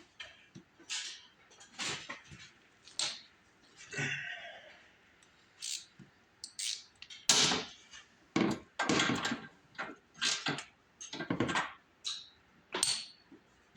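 Irregular clicks, knocks and short scraping rattles from hands working on a snowblower and its parts, about a dozen separate sounds with the loudest in the second half. The engine is not running.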